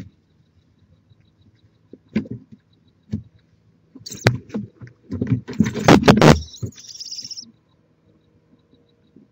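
Barn owls moving about on the nest box, making thumps and knocks on the wood. A barn owl gives a raspy hiss lasting about three seconds, starting about four seconds in.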